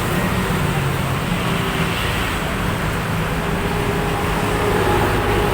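Steady road traffic noise, with a low engine hum underneath.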